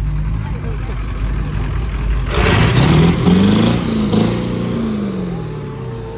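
Turbo-diesel engine revved hard, its pitch climbing twice with a loud rushing noise, then falling away as it settles back.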